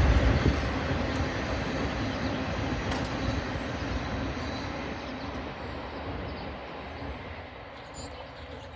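Rumbling noise of a passing vehicle, heavy and loud at first, fading steadily away as it recedes.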